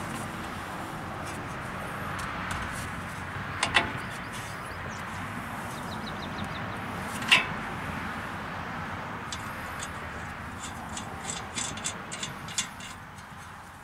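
Steady wind rushing on the microphone, with two sharp knocks about four and seven seconds in and a run of light clicks near the end.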